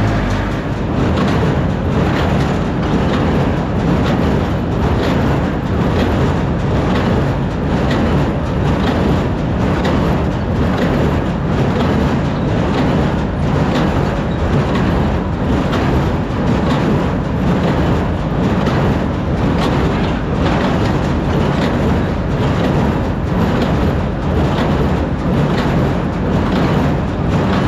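Tractor engine running at high RPM to drive a square baler, with the baler's plunger knocking in an even, regular beat.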